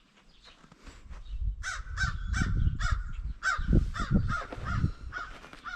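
A crow cawing in a rapid series, about ten harsh caws at roughly two to three a second, starting a couple of seconds in.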